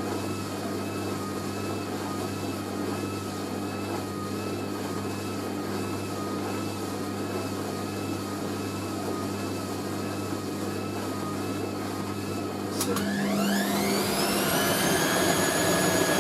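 Hoover A3060 Electronic 1100 washing machine motor turning the drum at distribution speed, a steady whine that wavers evenly in pitch as the heavy, water-laden load tumbles. About 13 seconds in there is a click, and the motor whine rises sharply and grows louder as the machine ramps up into spin.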